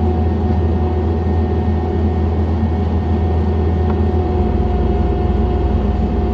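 John Deere 317 skid steer's diesel engine running under load, heard from the operator's seat: a steady low drone with a thin, steady whine above it. The low drone shifts slightly about four seconds in.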